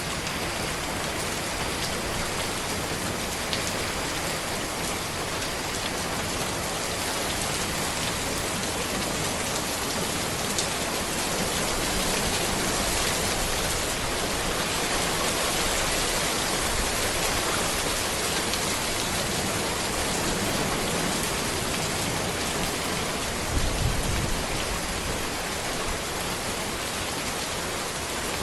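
Steady rain falling on a road, an even, dense patter. Near the end there is a short low thump.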